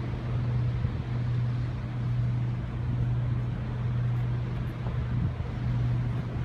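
Steady low engine drone, one constant deep hum, under a rushing haze of wind and water-like noise.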